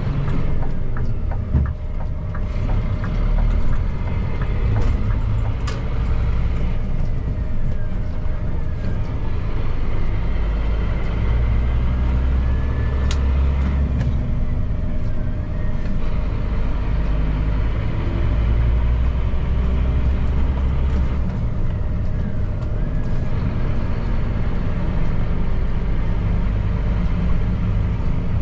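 Scania P310 truck's diesel engine running steadily on the road, a continuous low drone mixed with road noise.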